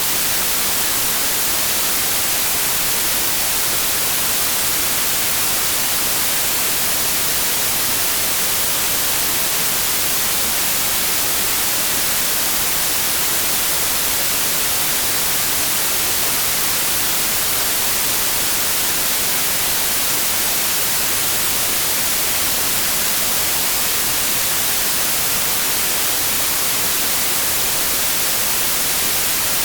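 Steady, unbroken white noise: an even hiss, strongest in the high end, with no change in level.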